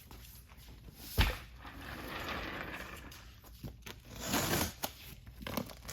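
Cardboard box being handled and opened: a sharp knock about a second in, then stretches of scraping, crinkling and tearing of cardboard and packing.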